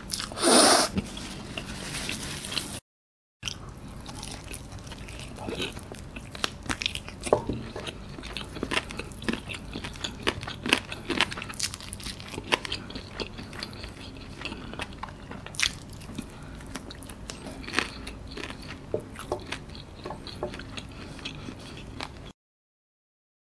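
Close-miked eating of fried chicken: irregular crunching, chewing and wet mouth clicks as the meat and crust are bitten and gnawed off the bone. A brief louder burst comes near the start, and the sound cuts to dead silence for a moment about three seconds in and again near the end.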